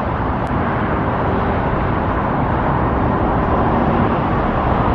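Steady roar of road traffic with a faint steady hum running through it.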